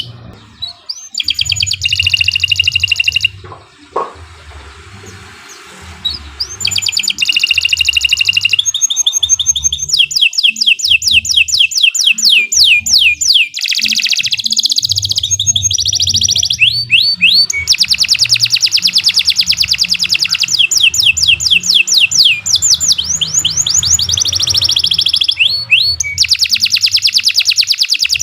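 Domestic canary singing a long song of fast, evenly repeated trills and rolls, changing from one trill to the next. A quieter gap falls from about the fourth to the sixth second.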